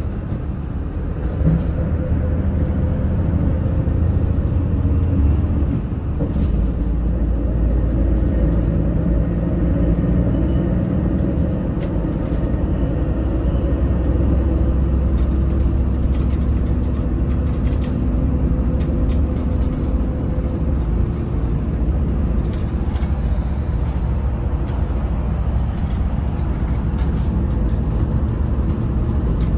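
Daewoo FX116 coach's diesel engine running steadily under way, a continuous low drone mixed with road noise. The engine note shifts briefly about six seconds in, then settles again.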